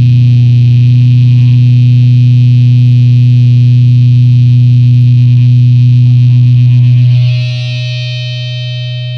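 Harsh noise music from distorted electric guitar and effects: a loud, steady wall of distortion over a heavy low hum. About seven seconds in it drops to quieter held ringing tones that begin to fade near the end.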